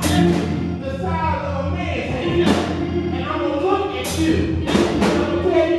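Live gospel church music: a steady low bass or organ line and drums with several cymbal crashes, with voices singing over it.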